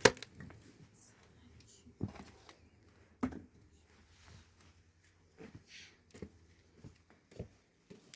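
A few scattered sharp knocks and clicks, about six, the first the loudest, with quiet between them.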